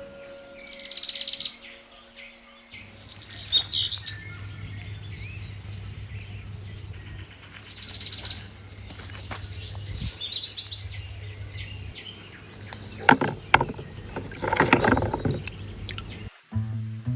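Small songbirds chirping, with quick high trills and short calls repeating every few seconds, over a steady low hum. A few louder, harsher sounds come about three-quarters of the way through.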